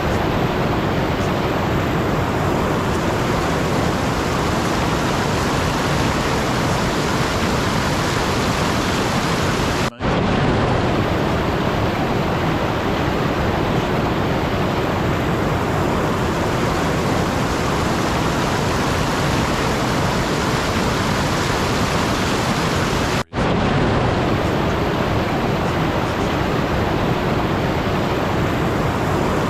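Steady, even rushing noise spread across all pitches, like an ambient noise track. It drops out for a split second twice, about ten seconds in and again about twenty-three seconds in.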